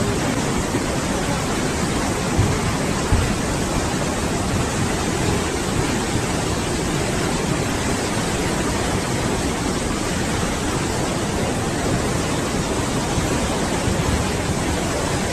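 Fast-flowing floodwater rushing steadily, with two dull thumps about two and a half and three seconds in.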